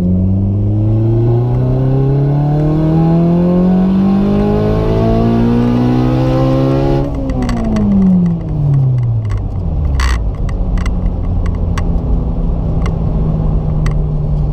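Turbocharged Honda Civic Si's four-cylinder engine at full throttle in third gear, its pitch rising steadily toward redline for about seven seconds. Then the throttle shuts abruptly and the revs fall away quickly as the car brakes, settling to a steady lower hum. A few sharp clicks follow.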